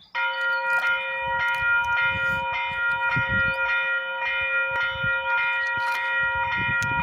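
Level crossing warning bell starting to ring suddenly and ringing on steadily with rapid repeated strikes, signalling an approaching train; a low rumble underneath.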